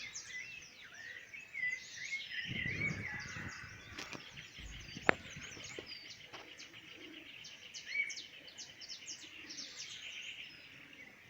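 Outdoor ambience of birds chirping and calling, over a steady high trill, with a low rustle a few seconds in and a single sharp click about five seconds in.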